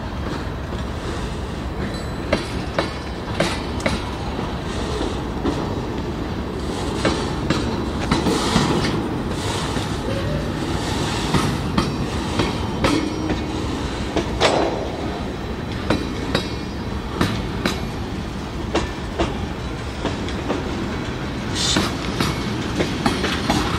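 Freight cars rolling past on steel wheels with a steady rumble, the wheels clacking irregularly over rail joints.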